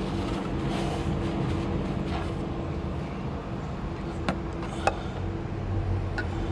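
A steady low mechanical hum, like a running motor, with a couple of sharp clicks about four and five seconds in.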